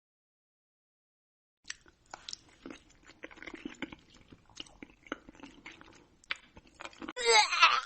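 Crunchy chewing: irregular crisp crunches and clicks of food being bitten and chewed, starting about a second and a half in. A short, loud pitched sound with a wavering voice-like tone comes near the end.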